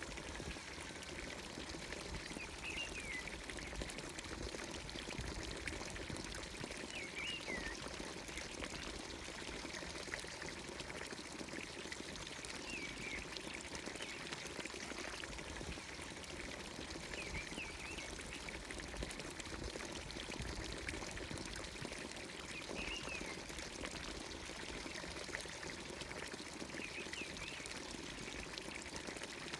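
Water pouring steadily from a village fountain's spout into its trough. A bird gives a short chirping call about every five seconds over it.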